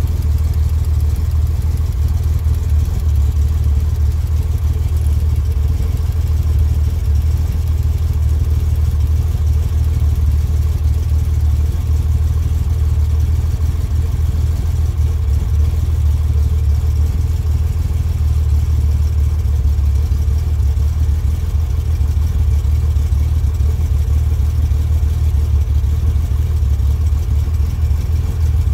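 1964 Chevrolet Corvair's air-cooled flat-six idling steadily with one valve cover off, while its rocker arms are set to zero lash with the engine running.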